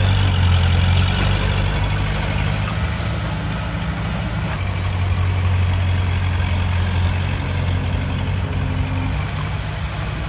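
Heavy diesel engine of earth-moving machinery running steadily with a deep, even drone.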